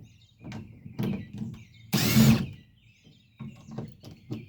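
A power drill run in short bursts, the loudest about two seconds in, with smaller knocks and clicks of handling between them.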